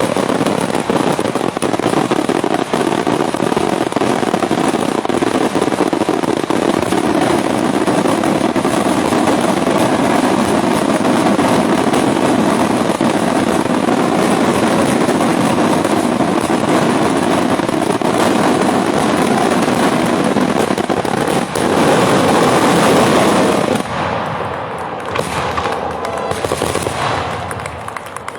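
Daytime fireworks: a dense, rapid barrage of bangs and crackling. It drops away suddenly about three-quarters of the way through, leaving a few scattered bursts.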